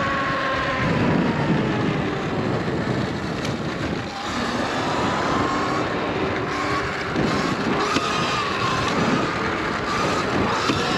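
2019 Surron Light Bee electric dirt bike cruising. Its motor's whine falls in pitch over the first couple of seconds, then rises and wavers with the throttle, over a steady rush of noise.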